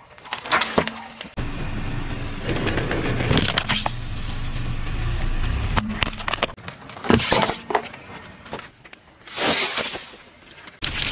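Objects cracking and breaking under a car's tyres: sharp snaps about a second in and again around seven seconds in, with the steady noise of the moving car in between.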